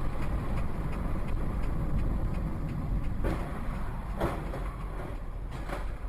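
Steady road and engine rumble of a car driving, recorded by its dashcam, with other vehicles whooshing past three times, about three, four and nearly six seconds in.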